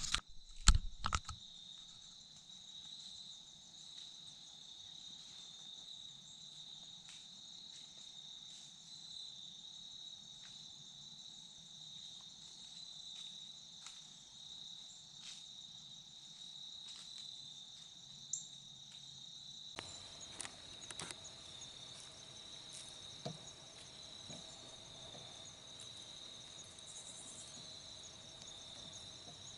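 Crickets trilling in a steady, high-pitched chorus, with a few sharp clicks about a second in and scattered soft ticks afterwards.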